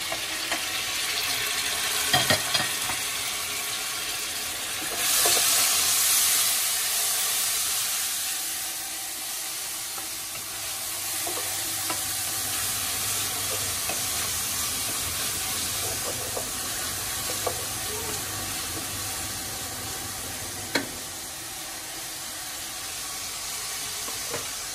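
Chopped tomatoes and onions sizzling in hot oil in an aluminium pressure-cooker pot, stirred with a wooden spoon. The sizzle swells louder about five seconds in, and there are a few short knocks, the loudest about two seconds in.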